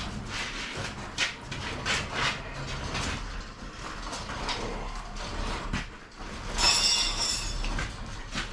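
Irregular metallic clicks and clanks of hand tools working on metal engine parts, with a brief high-pitched metallic squeal a little before the end.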